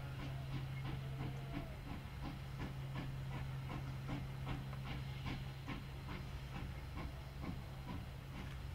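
Train in motion: a quick, uneven run of clicks and knocks over a steady low hum.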